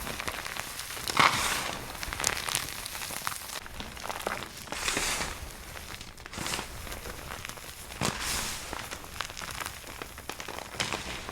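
Soap being crunched: dense crackling with many sharp snaps, the loudest about a second in.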